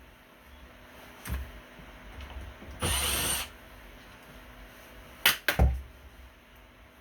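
A power tool runs in one short burst of under a second, with a few sharp knocks and clacks before and after it.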